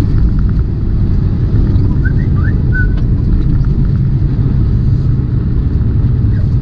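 Steady low rumble of a semi truck's engine and road noise, heard from inside the cab while driving.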